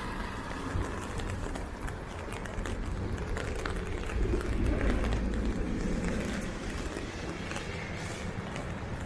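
Steady rain pattering on an umbrella, with a low background of traffic. A louder low rumble swells and fades about four to six seconds in.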